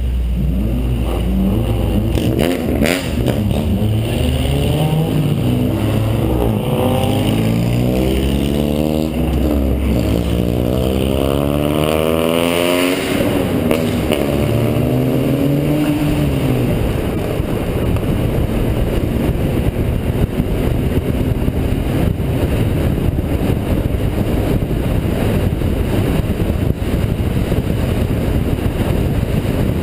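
Honda Integra DC2's four-cylinder engine heard from inside the car, revving up in pitch several times through the gears over the first half. After that it settles into steady cruising, with road and wind noise.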